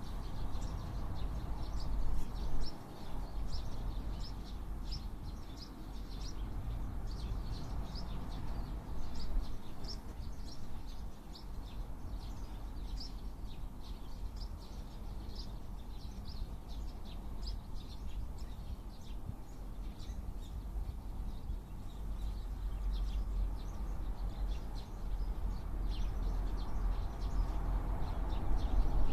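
Eurasian tree sparrows giving many short chirps throughout, over a steady low rumble.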